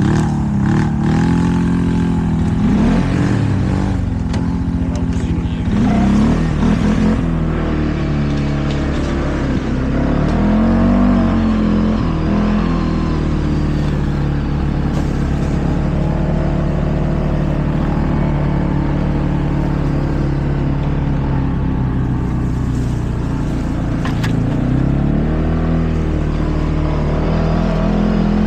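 ATV engine running while riding, its pitch rising and falling with the throttle in the first several seconds and again about eleven seconds in, then holding steady for a long stretch before climbing again near the end.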